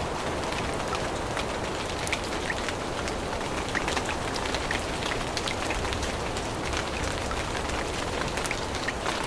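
Steady rain falling on forest leaves: an even hiss with many separate drops ticking through it.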